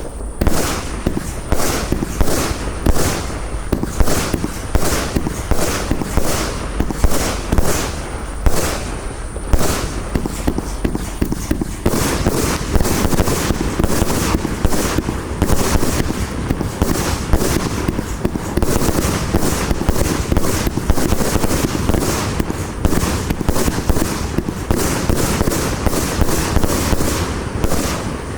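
A 30 mm compound fireworks cake firing shot after shot: sharp launches and bursts, two or three a second. About twelve seconds in, the reports thicken into a dense, continuous rattle of overlapping bursts.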